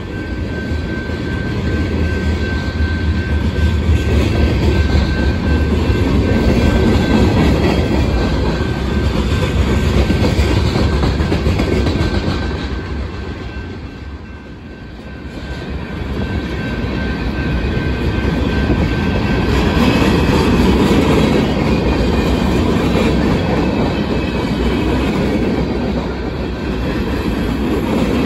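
BNSF freight train cars rolling past at close range: a steady rumble and clatter of steel wheels on the rails, easing briefly about halfway before building again. A thin steady wheel squeal runs through the first two-thirds.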